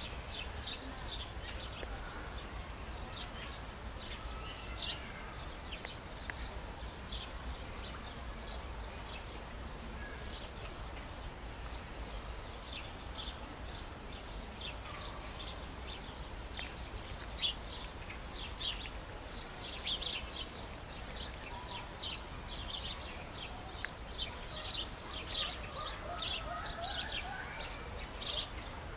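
Short, sharp bird calls repeated many times, more frequent in the second half, over a steady low rumble.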